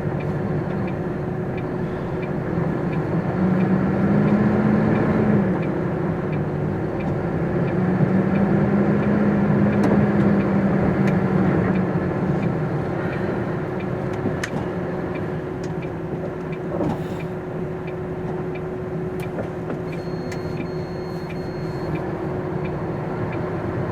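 Heard from inside the cab, a MAN TGX articulated lorry's diesel engine runs steadily as the truck moves off. The revs rise and settle twice in the first half.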